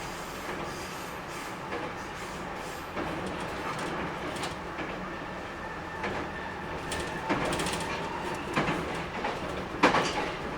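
JR Kyushu 811 series electric train running, heard from inside the car: a steady rumble of wheels on rail, with a few sharp wheel clacks over rail joints in the later seconds, the loudest near the end.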